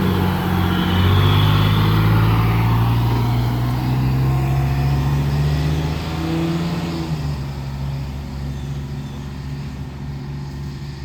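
Retired 1984 Pierce Dash fire engine running with a steady low drone that eases off over the last few seconds.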